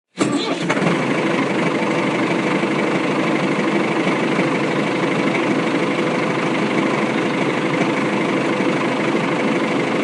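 Tractor engine running steadily at an even idle-like pace, with no changes in speed.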